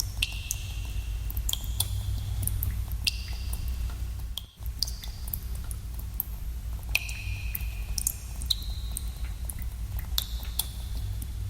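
Water drops falling into a cave pool, echoing. Many irregular plinks, each with a short ringing tone, play over a steady low rumble, and the sound cuts out for a moment about halfway through.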